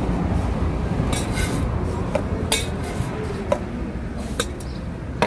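A metal spoon clinking and scraping against a steel container, about seven irregular clinks, as jhal muri is scooped and mixed, over a steady low rumble.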